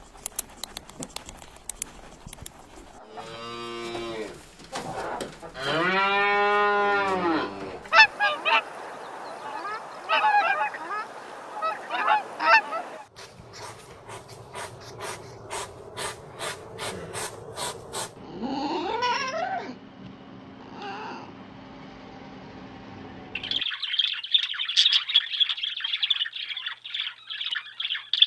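A run of different animal calls one after another: a call that rises and falls in pitch, then short chirps, then regular clicks at about three a second. Near the end comes the harsh, rapid chatter of monk parakeets.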